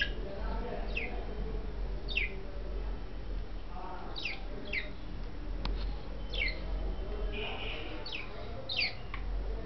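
Budgerigars calling: a string of short, sharp chirps that each fall in pitch, about eight of them at uneven intervals, with a single sharp click midway.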